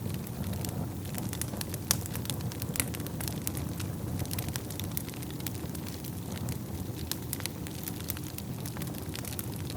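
Wood fire burning in a fireplace: a steady low rumble of flames with frequent sharp crackles and pops, one louder pop about two seconds in.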